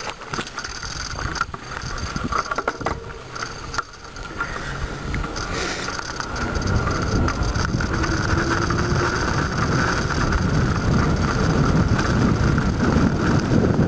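Riding noise from a bicycle on the road, mostly wind rushing over the microphone, growing louder from about halfway through as the bike picks up speed.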